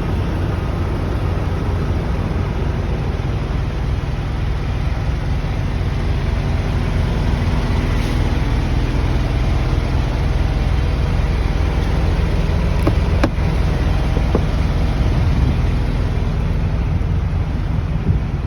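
Vehicle engine running, a steady low rumble, with a few faint clicks about thirteen seconds in.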